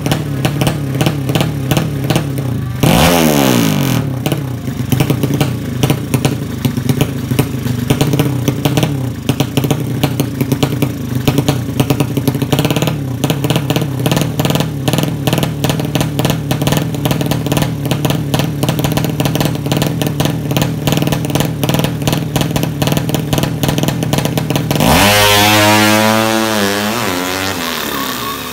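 Tuned drag bike engine running at a fast idle, then blipped once about three seconds in. It is revved again near the end, the pitch climbing and then wavering down.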